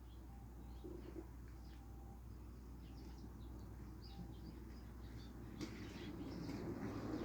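Faint bird chirps over a steady low hum, with a soft, noisy swell of sound near the end.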